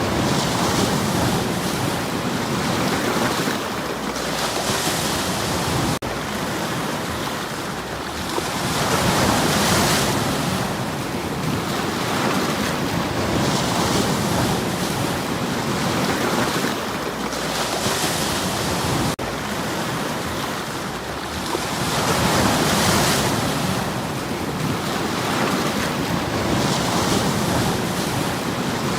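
Sea waves breaking and washing over a stony shore, swelling and falling back about every four to five seconds.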